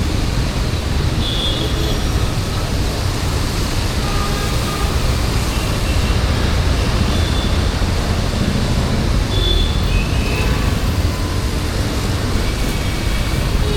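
Steady road traffic noise of a busy city street, a continuous low rumble of passing vehicles, with a few faint short high tones scattered through it.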